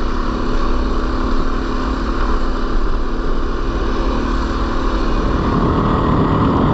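A 450cc four-stroke single-cylinder dirt bike engine running steadily while riding, with a rough low rumble that gets louder about five seconds in.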